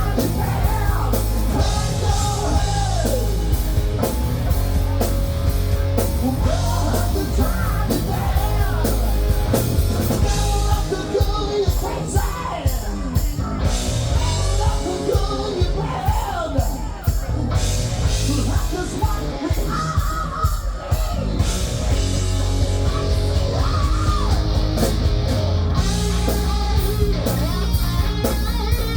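Rock band playing a heavy-metal song live: drum kit and distorted electric guitar, with yelled vocals over them.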